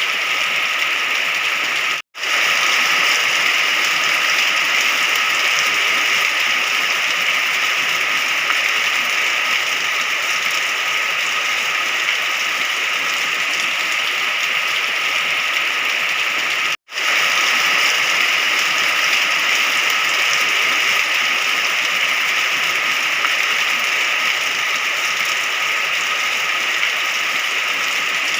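Steady rain falling, a dense even hiss with no thunder. The sound cuts out completely for a split second twice, about two seconds in and about seventeen seconds in.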